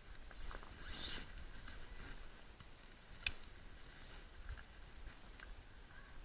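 Faint rustling and small handling noises, with one sharp click about three seconds in.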